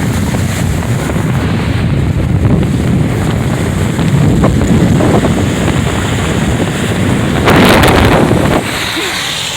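Wind buffeting the microphone of a moving car, a loud steady low rumble that swells into a louder rush for about a second near the end.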